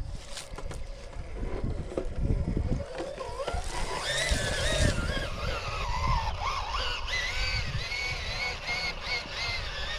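Electric drive motor of an RC crawler truck whining, its pitch rising and falling with the throttle from about three and a half seconds in, over low knocks and rumble from the truck clambering over obstacles.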